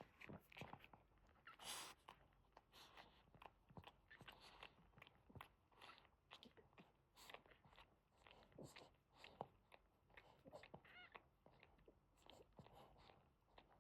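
Quiet, irregular wet clicking and smacking mouth sounds from a Boston Terrier mother dog and her newborn puppies, with one brief high squeak about eleven seconds in.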